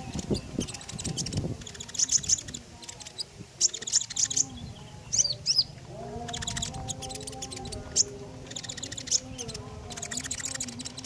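Konin songbird singing in its full, busy form: rapid high chirps and trills in repeated bursts with short pauses between them. Low steady tones sit underneath from about halfway through.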